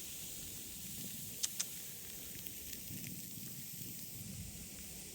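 Steady fine hiss of snow falling in a snowstorm, with two short sharp clicks about a second and a half in.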